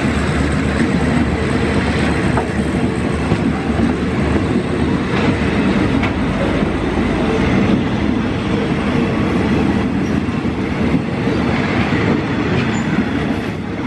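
Passenger coaches of a Thai rapid train rolling past close by: a steady rumble of steel wheels on the rails with the clatter of bogies, broken by occasional sharp clicks.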